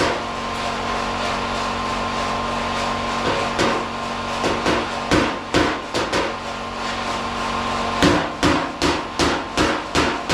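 Body hammer tapping a steel panel to raise a spot that is still low: a loose run of strikes from about three seconds in, then a quicker run of about six strikes, roughly two a second, near the end. A steady hum runs underneath.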